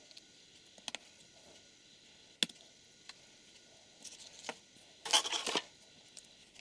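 Small clicks and taps of 3D-printed plastic engine parts being handled and fitted together, with one sharp click about two and a half seconds in and a short rattle a little after five seconds.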